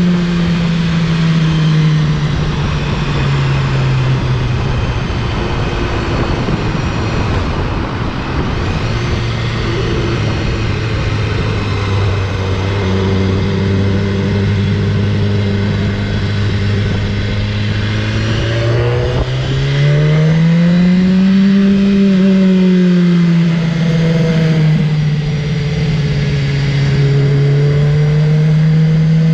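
BMW S1000RR's inline-four engine running under way at changing revs, with wind rushing over the helmet-camera microphone. The engine note drops early on, holds low and steady for a long stretch, then climbs and falls again about two-thirds through and rises once more near the end.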